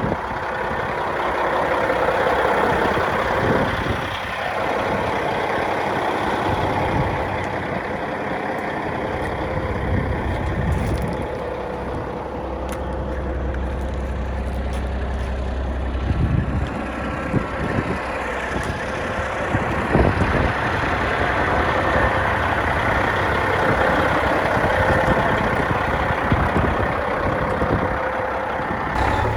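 Heavy diesel truck with a Caterpillar 3406 engine running steadily at idle, with a few brief knocks.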